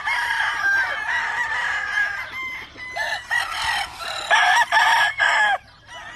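Several game roosters crowing over one another, with clucking mixed in; the loudest crows come about four to five and a half seconds in.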